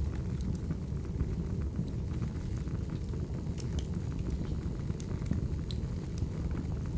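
Crackling wood fire: a steady low rumble of burning logs with irregular sharp pops and snaps.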